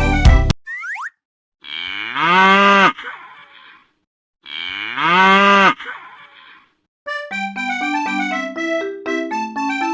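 A cartoon bull's moo sound effect, played twice identically about three seconds apart, each a long call that bends up and then down. A short rising whistle comes just before the first moo, and bouncy keyboard music starts near the end.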